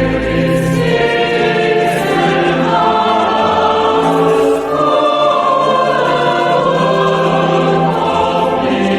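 Choir singing a hymn in several parts, with sustained chords over a bass line.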